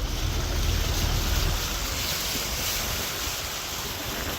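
A car driving through floodwater: a steady rush and splash of water against the car, over a low rumble that eases off after about a second and a half.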